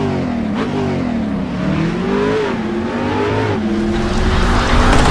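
Car engine accelerating, its pitch rising and dropping back several times, then holding steadier while the sound grows louder near the end.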